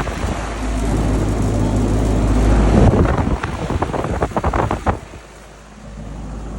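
Outdoor air conditioner condensing units running: a steady low hum of compressor and fan. From about three to five seconds in it is broken by a run of short rustles and knocks, and it dips briefly before the steady hum returns.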